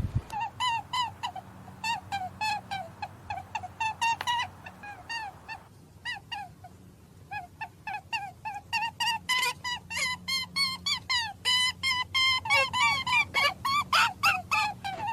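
A flock of birds calling: many short, falling calls, several a second and overlapping. A brief lull comes about six seconds in, then the calls pick up again, denser.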